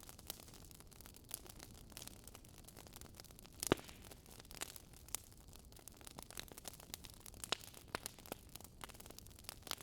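Wood fire crackling softly, with irregular pops and snaps over a faint hiss and one louder pop a little under four seconds in.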